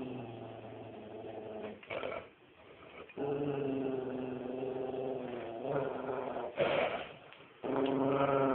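Dog growling in long, drawn-out, steady-pitched growls, three in a row, with short harsher sounds between them.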